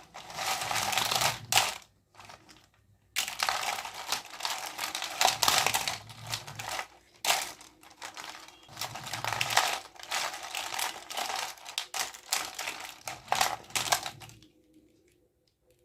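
Plastic packaging crinkling and crackling as it is handled and opened, full of sharp clicks: a short burst, a brief pause, then a long stretch that stops about a second before the end.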